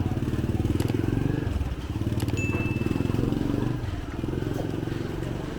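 Motor scooter engine running close by as it passes, with a brief high tone about two and a half seconds in.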